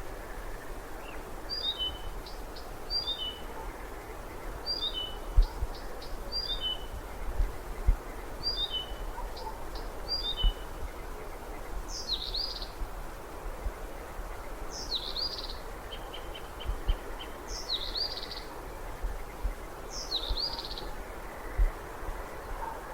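Bird calling: groups of three quick descending high notes, repeated several times, then from about halfway a different high sliding call every two to three seconds, with a short rapid trill of about six notes in between. A steady noisy background with occasional low thumps runs underneath.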